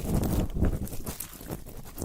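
Close-miked ASMR ear-cleaning sounds: irregular low thuds and rubbing with small clicks, coming in clusters about twice a second.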